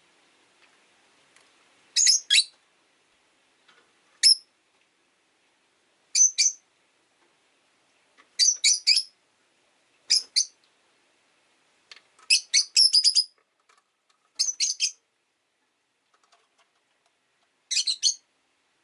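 Rosy-faced lovebirds giving short, sharp, high-pitched chirps in quick clusters of two to five notes, a burst every couple of seconds.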